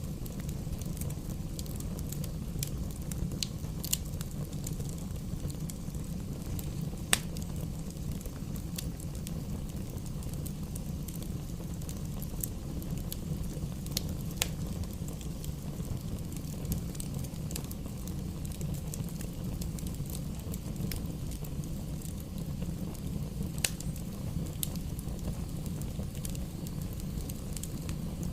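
Wood fire burning in a fireplace: a steady low rumble of flames with scattered sharp crackles and pops from the burning logs, one louder pop about a quarter of the way in.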